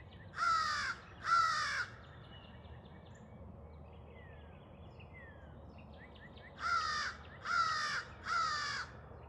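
Crow cawing: two harsh caws, a pause of several seconds, then three more caws in quick succession.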